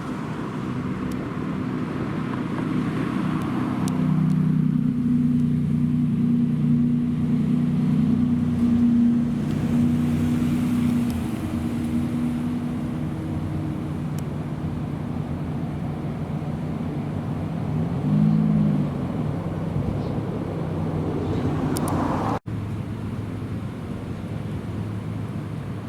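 Supercar engines idling with a deep, steady note and a short rev blip about eighteen seconds in. The sound cuts out abruptly for an instant a little later.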